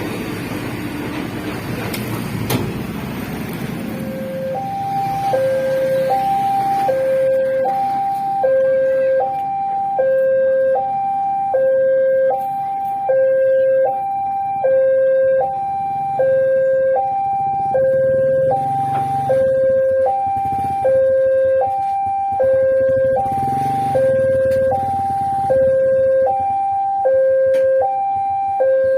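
Railway level-crossing warning alarm starts about four and a half seconds in: a two-tone signal alternating evenly between a low and a high note, repeating steadily. It warns that a train is approaching and the crossing barriers are closing.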